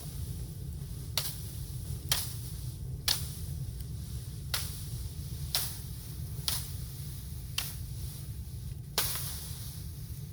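Sharp cracks of bamboo, about one a second, eight in all, with the loudest near the end, over a low steady rumble.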